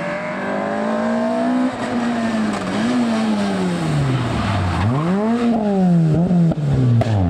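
Rally car engine revving hard, its pitch climbing, falling away when the throttle is lifted and climbing again: a deep drop and sharp rise about five seconds in and another near the end. A few sharp cracks come around six and a half seconds.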